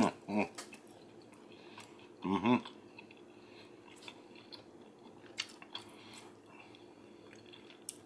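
A person chewing a mouthful of barbecue chicken sandwich, with faint wet mouth clicks, and short voiced sounds at the start and again about two seconds in.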